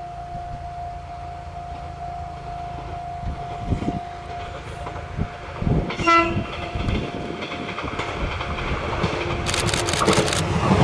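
A JR 185 series express electric train approaching on its track: a short horn blast about six seconds in, then the rumble of the train building steadily louder, with wheels clacking over rail joints near the end.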